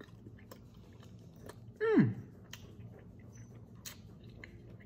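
Someone chewing a mouthful of barbecue chicken, with scattered faint mouth clicks and smacks. About two seconds in comes one short hum from the eater whose pitch falls steeply.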